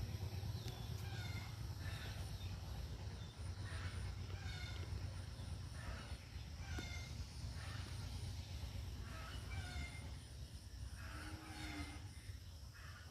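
Outdoor ambience: birds giving short chirping calls every second or so over a steady low rumble.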